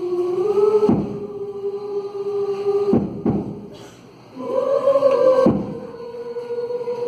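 Choir singing long held notes in unison, stepping up to a higher note about halfway through, with several low thumps under it.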